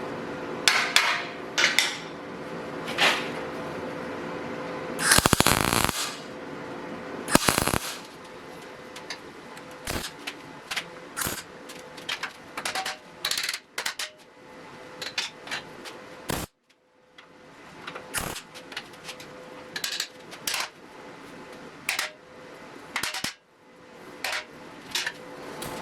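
Welder tack-welding steel grille bars in place: a string of short bursts of arc noise, irregularly spaced, the longest about a second long around five seconds in, over a faint steady hum.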